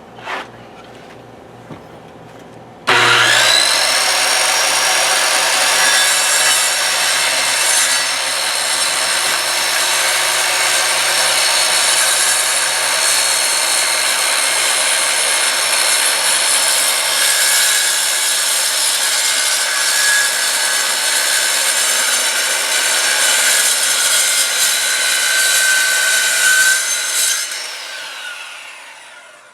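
Electric power saw starting up about three seconds in, quickly reaching speed and running steadily as it cuts wood, then switched off and winding down with a falling whine near the end.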